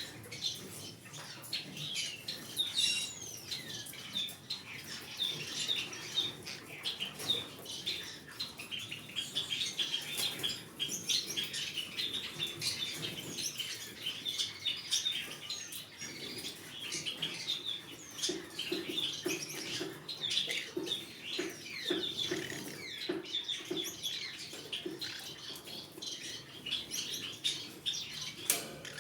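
Green-cheeked conure chattering with many short, rapid high chirps and squeaks, mixed with scattered small clicks.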